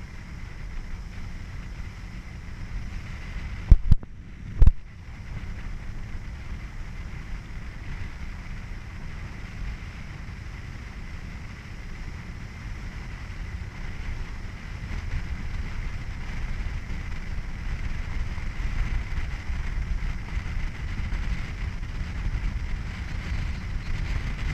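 Steady low rumble of a moving boat, its motor and wind on the microphone, growing a little louder in the second half, with two sharp loud knocks a little under a second apart about four seconds in.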